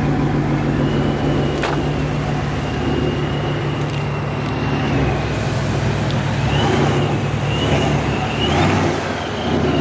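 Supercharged Ford Mustang's 5.0 V8 running at idle and low speed while parking, a steady engine note with a thin high whine that wavers slightly in pitch.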